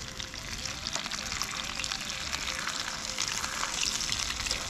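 Crumbed food sizzling and crackling as it fries in a pan: a steady hiss flecked with small pops.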